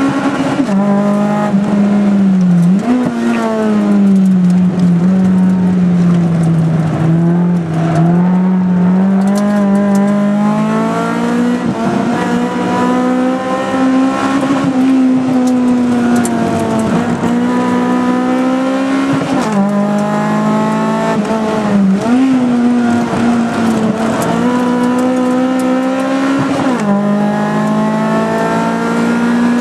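A tuned Mitsubishi Colt MIVEC's engine, heard from inside the cabin while it is driven hard. The revs climb and fall continuously, with sudden pitch jumps every few seconds as the gears are changed.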